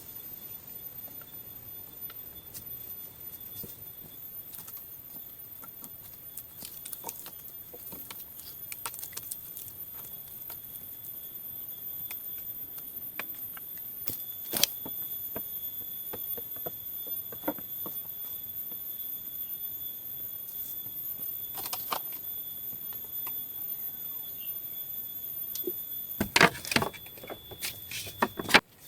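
Forest insects keeping up a steady, high-pitched drone, with scattered light clicks and knocks, and a quick run of louder knocks near the end.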